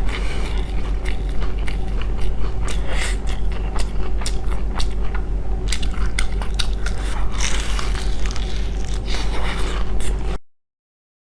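Close-miked eating sounds: biting and chewing with many irregular crunchy clicks and some scraping, over a steady low hum. The sound cuts off abruptly to silence near the end.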